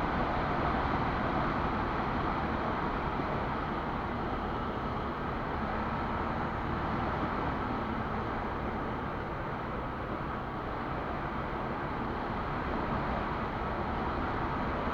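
Quad bike (ATV) engine running steadily while riding, with a constant rush of noise over it.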